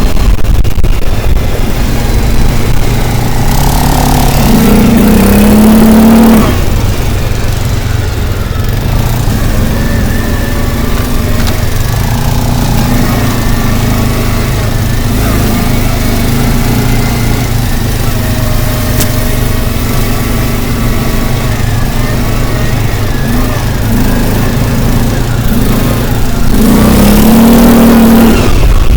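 A motor vehicle's engine running under way with road noise, rising in pitch twice as it revs up: about three seconds in and again near the end.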